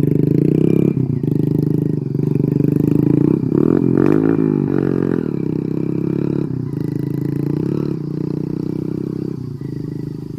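Single-cylinder Hero Splendor motorcycle engine running through an aftermarket SC Project exhaust, revving with a rise and fall in pitch about four seconds in. Short breaks and sharp cracks in the note, which the rider calls backfire.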